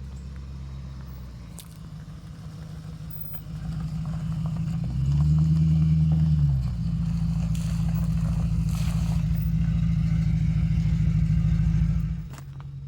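Land Rover Discovery 2's engine running under load as it is driven along an off-road trail. It grows louder a few seconds in, is loudest for a moment around the middle, holds steady, then drops away near the end.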